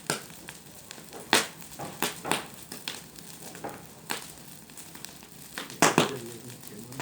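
Dry brush crackling and snapping: irregular sharp cracks, about seven of them, two of the loudest coming close together near the end.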